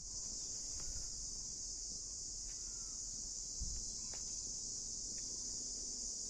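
A steady, high-pitched insect chorus of crickets or similar singing insects, droning without a break, with a few faint short chirps and clicks over it.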